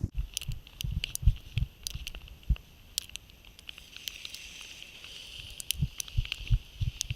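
Outdoor ambience in a heavy wet-snow blizzard: wind buffets the microphone with irregular low thumps, over a steady high hiss and scattered light ticks and pattering.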